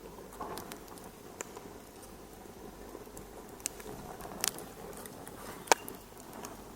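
Wood fire crackling in a fireplace: a soft, steady rush with irregular sharp pops, the loudest near the end.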